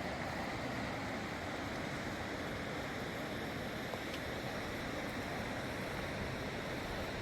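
Steady rush of fast-flowing floodwater from a swollen river, an even noise with no breaks.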